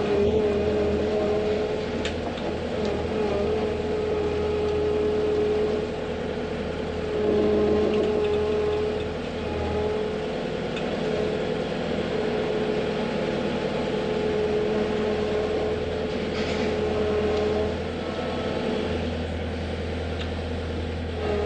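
Vehicle engine running steadily: a low drone with a steady humming tone over it.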